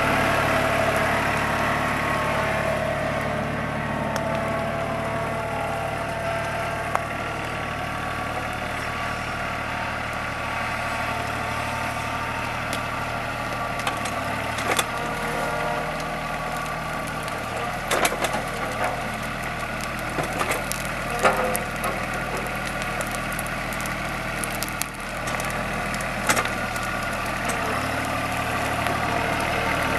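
TYM compact tractor's engine running steadily, with scattered sharp cracks and snaps of wood through the middle.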